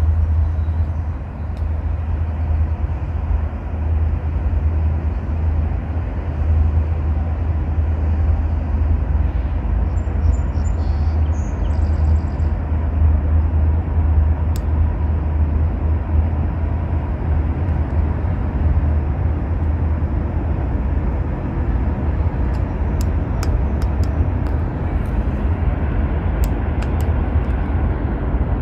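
Freight train passing with a steady low rumble, and a few sharp clicks near the end.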